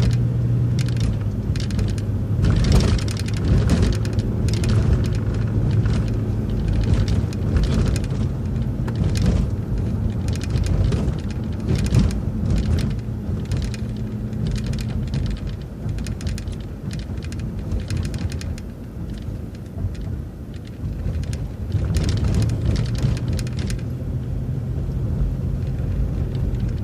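City transit bus driving, heard from inside: a steady low engine hum with frequent rattles and knocks from the body over the road. The engine note drops away for a few seconds past the middle, then comes back.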